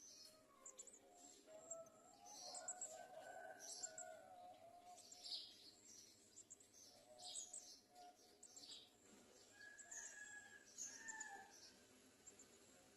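Faint high-pitched bird chirps, many short notes repeating throughout, with a few lower whistled notes mixed in.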